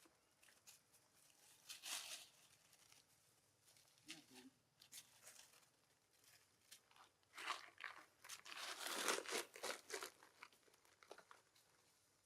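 Faint crinkling and crunching rustles in irregular bursts, densest and loudest from about seven to ten seconds in.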